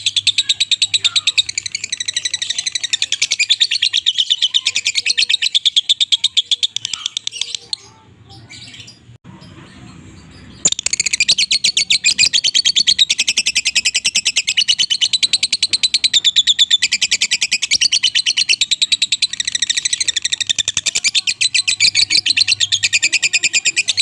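Young cikris and ciblek (bar-winged prinia) songbirds chirping in a rapid, continuous, high-pitched stream of calls, breaking off for about three seconds near the middle.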